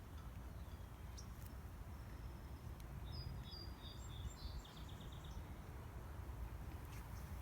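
A small songbird sings one short phrase of clear high notes that ends in a fast trill, about halfway through, over a steady low outdoor rumble.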